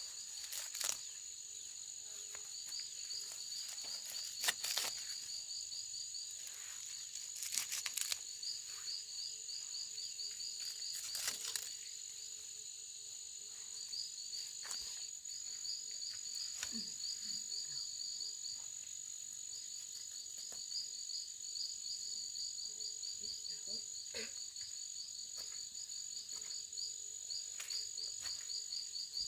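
Insects in the forest: a steady high-pitched buzz with repeated runs of rapidly pulsing chirps over it. A few sharp cracks or rustles stand out in the first half.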